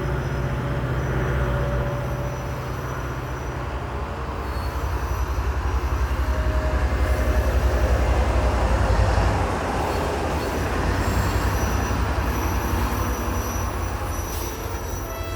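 Train passing, a rumble of engine and wheels that swells about a third of the way in, is loudest around the middle, then eases off.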